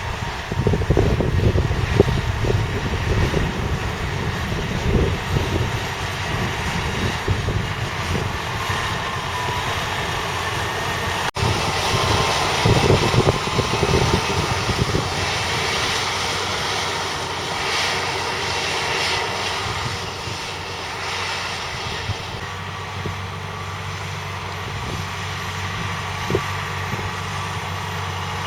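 Valtra T214's 7.4-litre six-cylinder diesel running, an uneven low rumble for most of the stretch, then settling to a steadier, even engine hum for the last few seconds.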